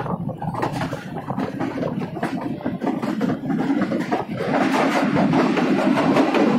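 Jaffar Express passenger train running on the rails, its wheels clattering over the track amid steady running noise. About four and a half seconds in, the noise grows louder and fuller as the coach enters a rock tunnel.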